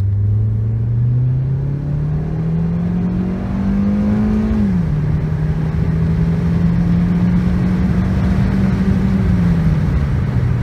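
2013 Ford Focus 2.0-litre four-cylinder engine, heard from inside the cabin, revving up under hard acceleration for about four and a half seconds. Then the dual-clutch automatic shifts up on its own: the revs drop suddenly and hold steady, easing down again near the end. The transmission will not stay in the third gear the driver selected.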